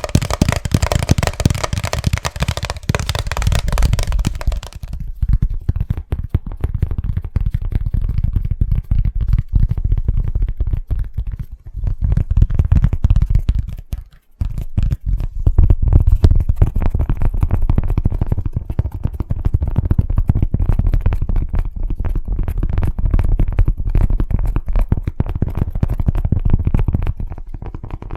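Fast, aggressive tapping on an object close to the microphone, a dense stream of taps. For the first five seconds or so the taps are bright and sharp. After that they turn dull and low, with a short pause about halfway through.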